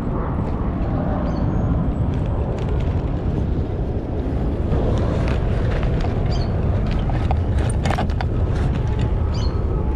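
Steady, loud wind noise rumbling over the microphone while riding a bicycle, with scattered light clicks and a few faint high chirps.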